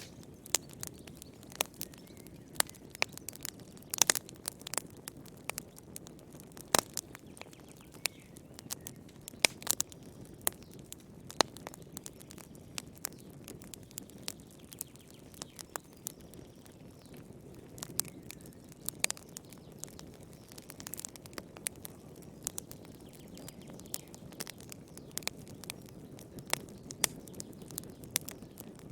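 Wood fire crackling: irregular sharp pops and snaps, a few a second, with some louder cracks, over a soft low rushing of the flames.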